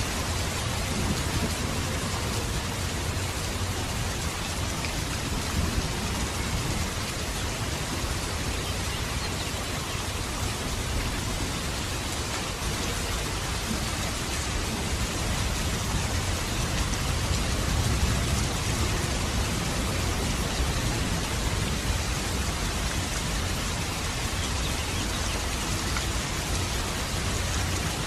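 Steady rain falling, an even hiss with a low rumble underneath that swells slightly a little past the middle.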